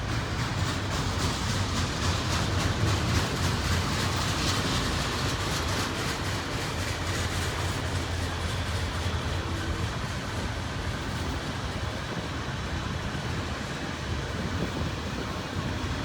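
Intermodal double-stack freight train rolling past: steel wheels on rail make a steady rumble, with rapid rhythmic clicking over the rail joints, strongest in the first half.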